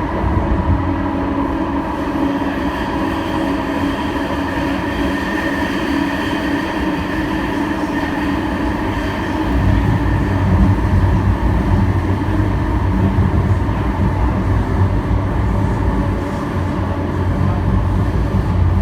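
Alstom Citadis Spirit light-rail train running between stations, heard from inside the car: a steady low rumble of wheels on rail with a steady whine from the drive over it. The rumble grows louder about ten seconds in.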